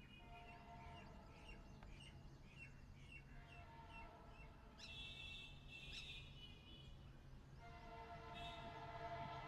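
Faint bird chirping, short calls about twice a second, over a low steady background hum. From about eight seconds in, a faint steady sound of several held tones grows slowly louder.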